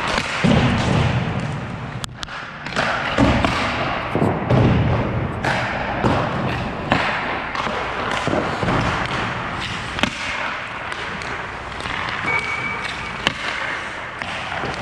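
Hockey drill in an ice rink: a string of irregular thuds and clacks as pucks are shot low along the ice and struck by sticks and goalie pads, about a dozen sharp impacts over steady rink noise.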